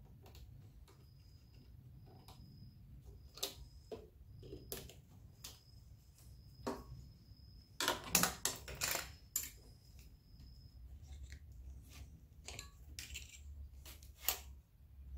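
Scattered metallic clinks and knocks of hand tools and small engine parts being handled and set down, busiest about eight to nine seconds in, over a low steady hum.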